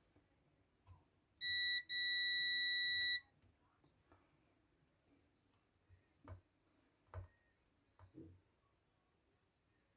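Multimeter continuity beeper sounding as its probes are put across a kettle circuit: a steady high beep about a second and a half in, broken briefly, then held for just over a second. A few faint taps follow later.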